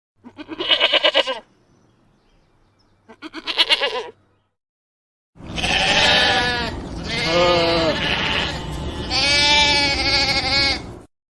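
Sheep bleating: two short, quavering bleats, then a longer run of several bleats from about five seconds in.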